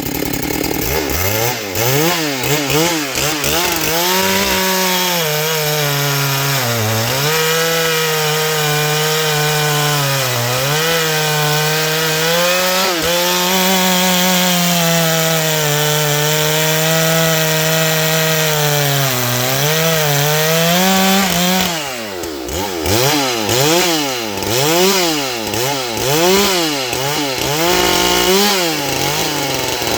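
Ported and decked Husqvarna 394XP two-stroke chainsaw being revved up and down. It is then held at high revs for a long cut through wood, its pitch sagging briefly a few times under load. Near the end it is blipped up and down quickly again.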